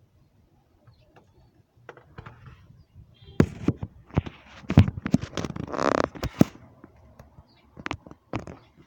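Irregular sharp taps and knocks, as of poultry and pigeons pecking at feed, with a short noisy burst a little past halfway.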